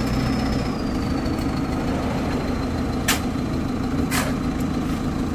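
Heavy diesel machinery engine running steadily, with a thin high whine that dips slightly in pitch early on. Two short hissing or scraping noises come about three and four seconds in.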